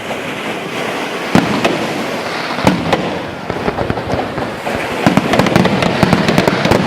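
Fireworks going off: a continuous crackle, with a sharp bang about a second and a half in and another near three seconds, then a dense, rapid crackling from about five seconds in.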